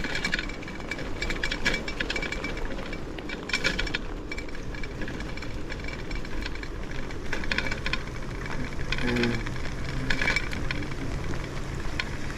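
Bicycle rattling in bursts as it rides over rough ground, over a steady rush of wind and road noise, with a low hum joining about two-thirds of the way in.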